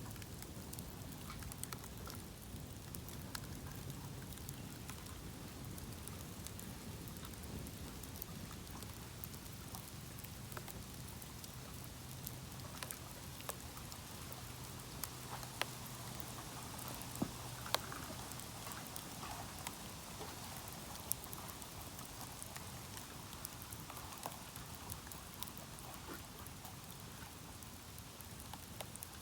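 Bamboo bonfire burning: a steady hiss of flames with scattered crackles and sharp pops, a few louder pops around the middle.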